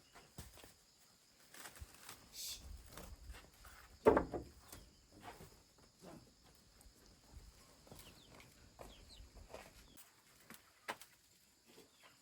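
Animal calls among scattered knocks and rustling, the loudest a short pitched call about four seconds in, with faint high chirps later on.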